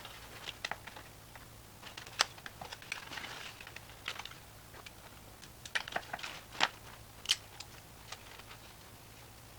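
Plastic pry tools working at the small blower fan's plastic housing: irregular clicks, taps and scrapes of plastic on plastic, with a few louder sharp clicks.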